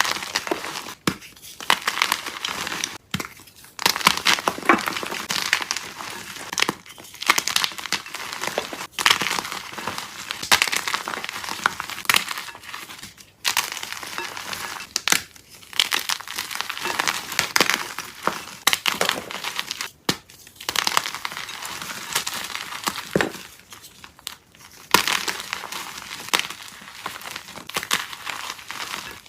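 Soft dyed chalk being crushed and crumbled, a dense run of crunchy crackles in stretches of a few seconds, broken by brief pauses.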